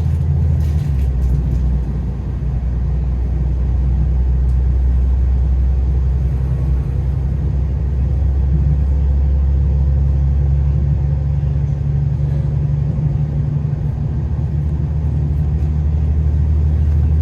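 Passenger train in motion, a steady low rumble heard from inside the carriage.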